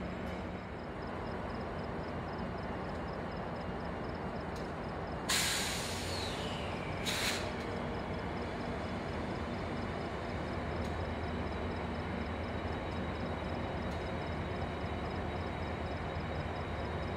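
Train at a station: a steady low rumble, with two sudden bursts of air hiss from its air brakes, the first and loudest about five seconds in and a shorter one about two seconds later.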